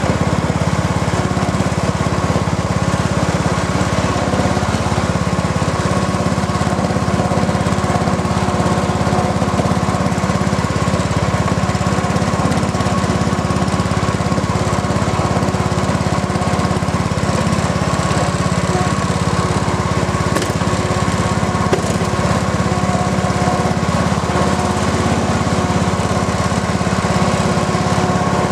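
The engine of a 1986 John Deere 165 hydrostatic lawn tractor running steadily at an even speed, with no revving or change in pitch.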